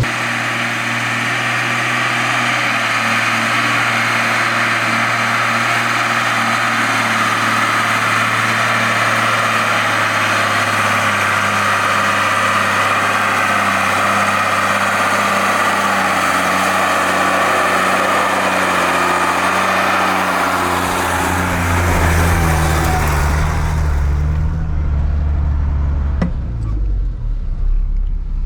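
Diesel engine of a Mercedes Unimog U1700L truck running steadily on a sandy track; about three-quarters of the way through its pitch drops and the sound turns deeper and lower as the truck eases off, with a single knock shortly after.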